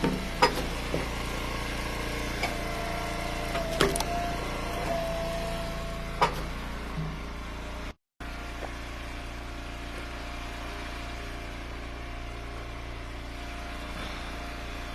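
Engine of an Eastonmade Ultra wood splitter running steadily, with a few sharp knocks over the first six seconds as rounds are split. The sound cuts out for a moment about eight seconds in.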